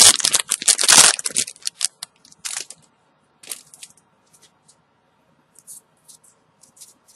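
Foil booster-pack wrapper crinkling loudly as it is torn open, stopping about a second in. Faint scattered ticks and rustles of trading cards being handled follow.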